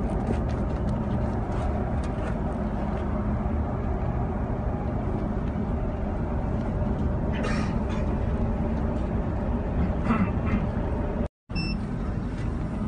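Subway train running, a steady low rumble inside the carriage with faint scattered clicks. It cuts out to silence for a split second near the end.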